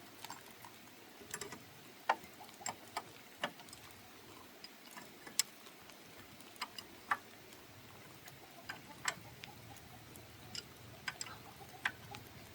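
Irregular sharp clicks and light taps, about a dozen spread unevenly, over a faint steady background.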